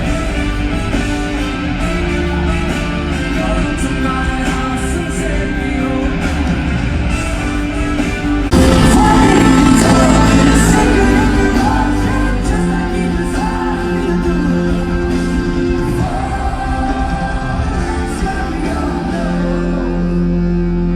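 Live band music with singing, played in a large hall; it gets suddenly louder about eight and a half seconds in.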